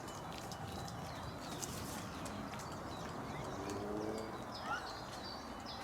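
Small birds chirping with short, high, repeated calls over a steady low outdoor rumble, and one lower, drawn-out call about three and a half seconds in.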